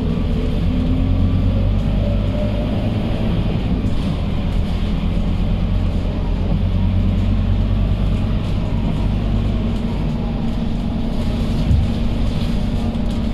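Scania K230UB city bus's diesel engine running steadily, a low even drone with road noise as the bus travels.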